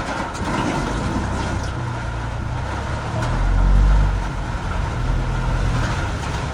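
Road vehicle noise on a rain-soaked road: a steady rushing of tyres, spray and engine with low rumble. A heavier low rumble swells about three seconds in and fades a second later.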